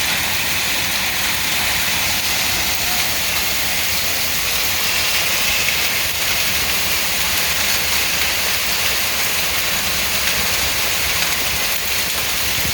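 Heavy rain and hail coming down on surfaces, a loud, dense, steady hiss that holds level throughout.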